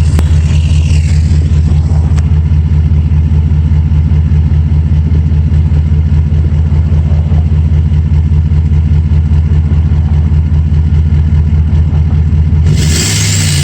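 2012 Ford F-350's V8 idling steadily through a 4-inch straight-pipe exhaust, a loud, even low rumble. Near the end a broad hiss joins in and the rumble shifts.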